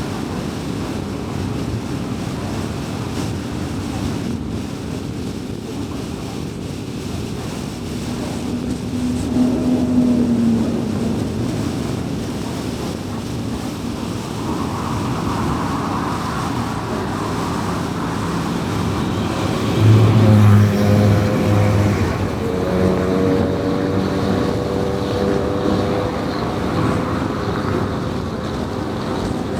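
A car driven at highway speed: steady tyre and road rumble with engine hum. Engine tones swell and fade briefly about ten seconds in and more strongly around twenty seconds in, as vehicles pass.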